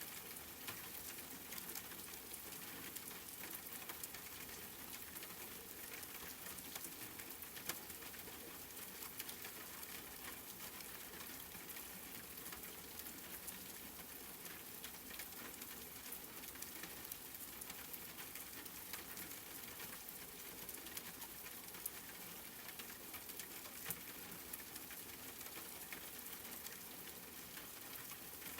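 Steady rain falling, a dense patter of drops with a few louder single drops standing out now and then.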